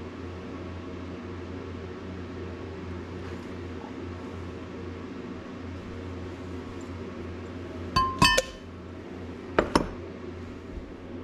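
Two short clusters of sharp clinks, hard containers or tools knocking together with a brief ring: one about eight seconds in and another a second and a half later, over a steady low hum.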